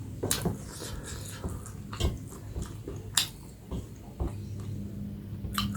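Close-miked eating of fried fish and curry: chewing and wet mouth sounds with a few sharp clicks, over a steady low hum.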